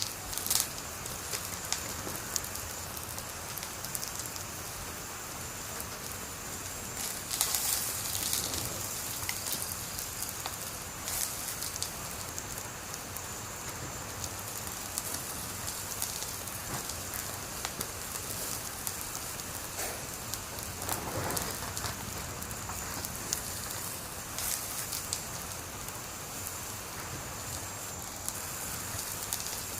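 Wood fire burning with a steady hiss and irregular crackles, with a few louder pops and snaps.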